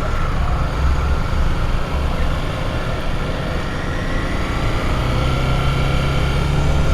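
Triumph Daytona sport bike's engine running while riding, with low wind rumble over the helmet microphone. A steady low engine hum comes up more strongly about five seconds in.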